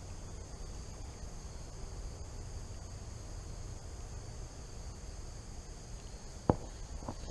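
Steady chorus of insects, crickets, holding two high even tones, over a low rumble, with a single sharp click about six and a half seconds in.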